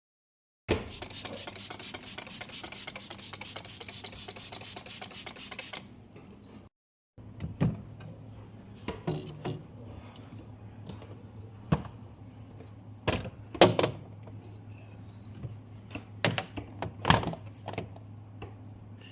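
Fridge cleaning: a fast, even run of scrubbing or spraying strokes, about four a second, for around five seconds. After a short break, scattered knocks and clatters of items and containers being handled and set down, over a low steady hum.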